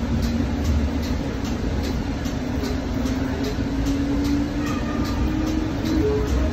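Inside a passenger rail car: the steady low rumble of the train running, with a faint hum that rises slightly in pitch partway through.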